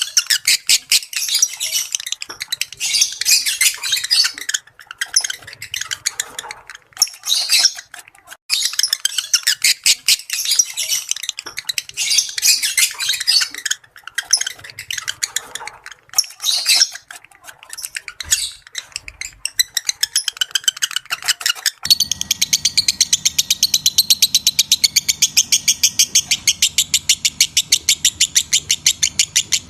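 Lovebirds in breeding condition chattering: dense runs of rapid, high-pitched chirps and squeaky twitters broken by short pauses. About 22 s in, the sound changes to a steady, fast, evenly spaced series of chirps over a low hum.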